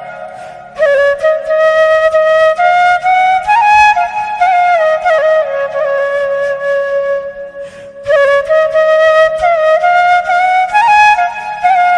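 Music: a solo flute playing a slow melody of held, gliding notes, with quieter passages near the start and about two-thirds of the way through.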